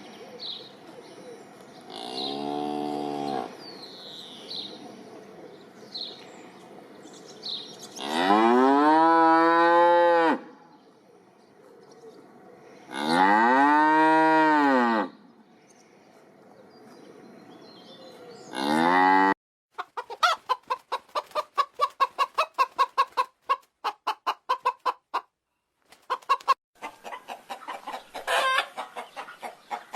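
A cow mooing four times, each a long rise-and-fall call, the middle two the loudest, with faint bird chirps behind. About two-thirds of the way through the sound cuts off abruptly and gives way to chickens clucking in quick, rapid calls.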